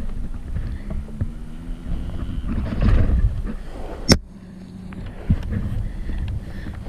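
Dirt bike engine running with a low, uneven rumble, broken by a single sharp click about four seconds in.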